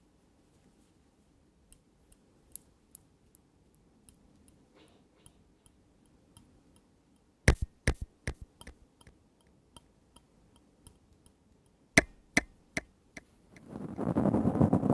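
Pen on paper and desk, close up: scattered light ticks and taps, with a cluster of louder clicks about halfway through and another a few seconds later. Near the end a rough, steady scratching rises.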